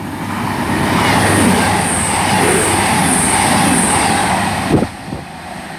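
CrossCountry Class 221 Super Voyager diesel-electric multiple unit passing through the station without stopping. Its wheel and engine noise swells into a loud rush with a high steady whine, then falls away suddenly about a second before the end.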